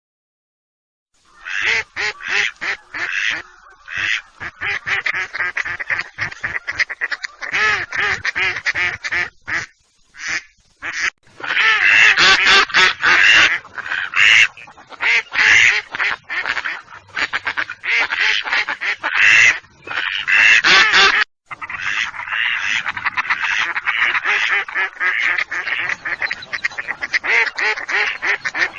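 Mallard duck quacking loudly in rapid, repeated series of short calls, with brief pauses between runs.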